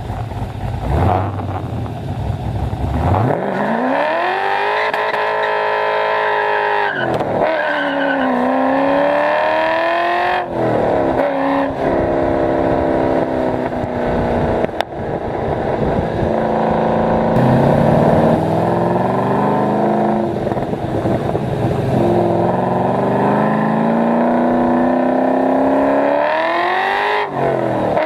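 Cammed LS1 V8 of an HSV VY Clubsport R8, breathing through long-tube stainless headers, high-flow cats and a 3-inch X-pipe exhaust, driven hard through the gears. After a low rumble, the revs climb sharply about three seconds in. The pitch then drops back at each gear change and climbs again several times, with steadier stretches between, and there is another run up near the end.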